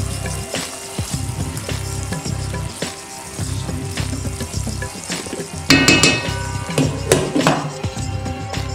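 Thick masala paste sizzling in oil in a heavy pot while a silicone spatula stirs it, over background music with a steady beat. A loud ringing clatter of cookware comes about six seconds in and a couple of knocks follow, as the glass lid is put on the pot.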